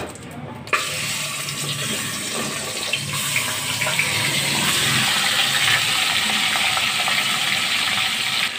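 Chicken in a wet spice marinade tipped into hot oil in a pot, setting off a loud, steady sizzle that starts suddenly about a second in.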